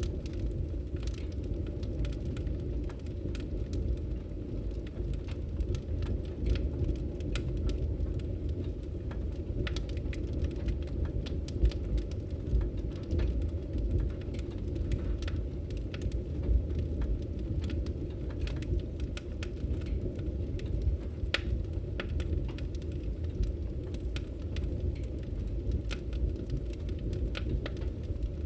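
Wood fire burning in a fireplace: a steady low noise of the flames with frequent sharp, irregular crackles and pops.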